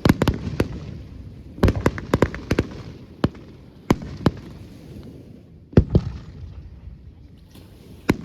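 Fireworks display: aerial shells bursting with sharp bangs, in a quick cluster near the start, another about one and a half to two and a half seconds in, then single reports spaced out, over a steady crackle and rumble between bursts.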